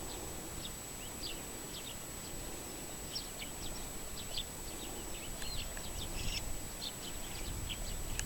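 Small birds chirping: many short, high calls scattered throughout, over a faint steady high whine.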